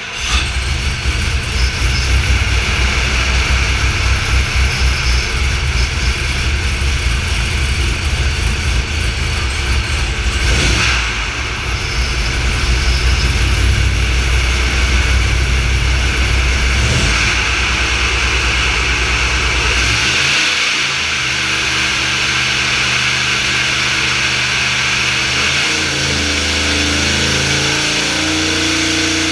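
Vortech V-7 YSi supercharged Chevy LS7 V8 running on an engine dyno through a drag-race simulation, loud and hard for the first twenty seconds with a brief dip near the middle. About twenty seconds in it drops to a lower, steadier running, with a few step changes in pitch near the end.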